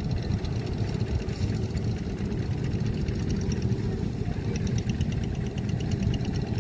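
Steady low engine rumble with no rise or fall, and faint rapid high ticking over it in the second half.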